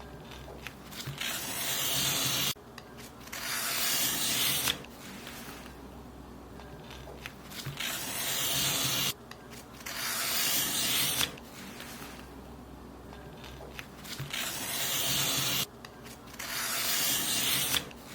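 Paper being cut in long strokes, six in all, coming in pairs: each is a dry hiss that swells for a second or two and stops sharply.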